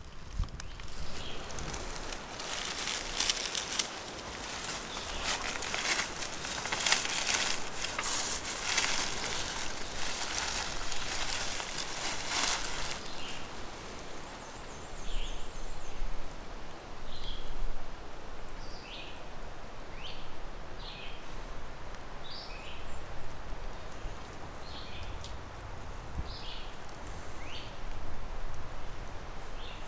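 Rustling in dry leaves for about the first half. Then a small bird chirping in short separate notes, about one every second.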